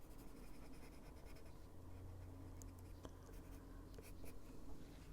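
Faint scratching of a Caran d'Ache Luminance coloured pencil stroking on paper, with a few light clicks.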